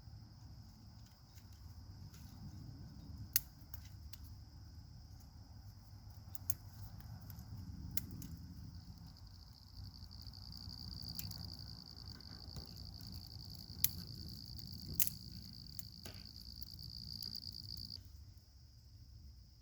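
An insect trilling steadily at a high pitch, growing louder partway through and stopping shortly before the end. A few sharp snaps sound over it.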